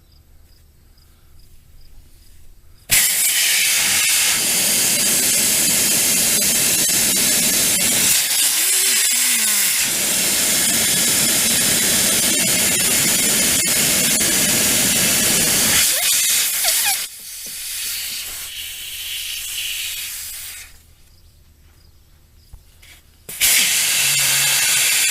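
Air hissing out of an IH 1086 tractor tire's tube through the valve stem as it is let down from about 20 psi toward the tire's 16 psi maximum. A long loud release of about thirteen seconds, a weaker spell, a pause, then another loud burst near the end.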